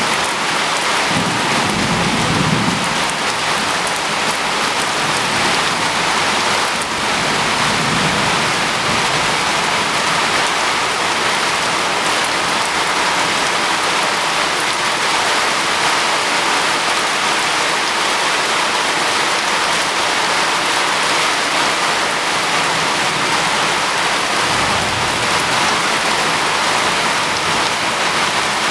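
Heavy rain pouring steadily, a dense even hiss. Low rumbles come through twice, about two seconds in and near the end.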